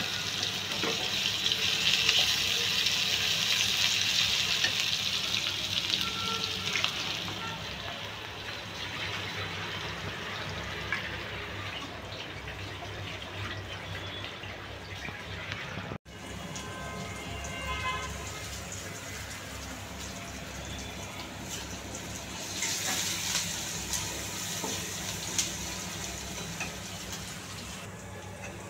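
Sliced onions and green chillies sizzling in hot oil in a black wok as a spatula stirs them. The sizzle is loudest for the first seven seconds, dies down, then swells again near the end.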